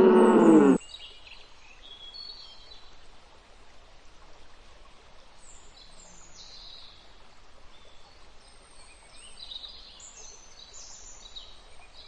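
An elephant's loud trumpeting call cuts off within the first second. A faint outdoor background follows, an even hiss with scattered short, high bird chirps.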